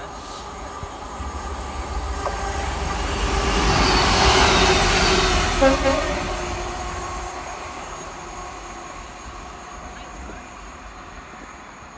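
Train passing through the station: its rumble builds to a peak about halfway through and then fades away. A brief horn toot sounds just after the peak.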